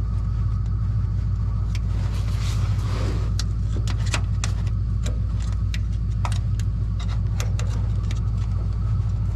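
A vehicle engine idles with a steady low hum. Over it come irregular sharp metallic clicks and clinks of a wrench working on a stuck starter bolt.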